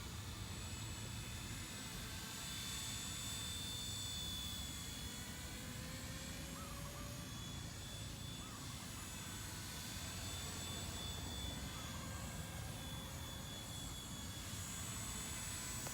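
Brushless XK K124 EC-145 scale RC helicopter in flight: a steady high motor whine that drifts slightly in pitch, over a low rushing noise.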